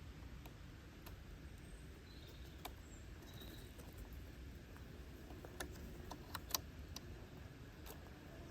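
Faint outdoor background: a steady low rumble with scattered sharp clicks, the loudest about six and a half seconds in, and a few faint high chirps between about two and three and a half seconds in.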